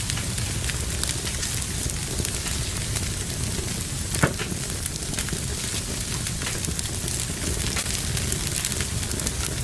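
Wood fire in a fireplace crackling steadily over a low rumble of flames, with frequent small snaps and one louder pop about four seconds in.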